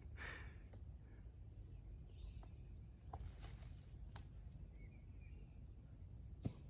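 Quiet outdoor morning ambience: a steady high insect drone with a low rumble underneath, a few faint bird chirps, and some faint clicks.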